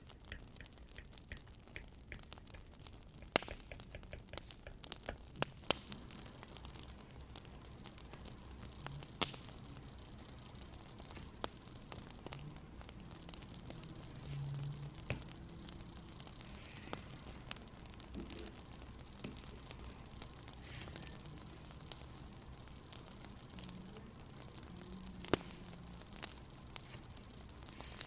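Wood fire crackling, with irregular sharp pops and snaps over a low, faint background rumble. A few pops stand out louder than the rest.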